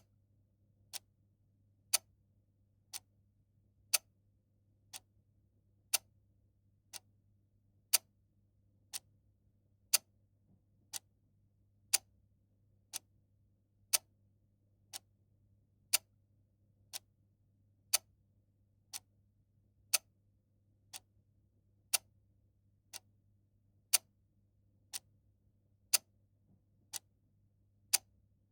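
Mechanical clock ticking steadily once a second, the ticks alternating louder and softer in a tick-tock pattern.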